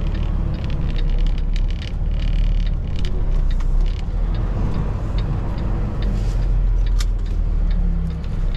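Semi truck's diesel engine running at low speed while the rig is reversed, a steady low rumble with a few light clicks and rattles.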